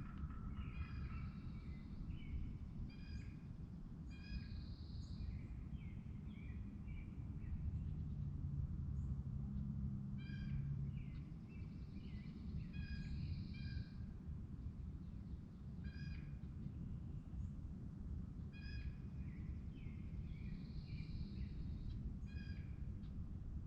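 Several birds calling. Short clipped calls repeat every two to three seconds, a buzzy trilled note comes three times, and chirps fall in between, all over a low steady rumble.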